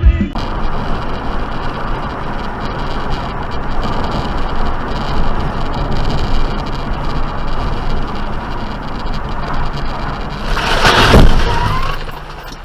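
Steady road noise from a car driving, rising to a loud noisy surge about eleven seconds in.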